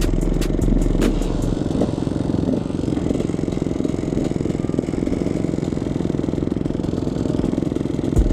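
Two-stroke enduro dirt bike engine, a KTM 300 EXC, running steadily while riding over rough trail, with scattered clicks and clatter.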